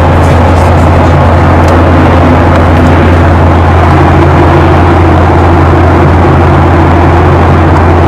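Passenger aircraft cabin noise: a loud, steady drone of engines and airflow with a deep hum, unchanging throughout.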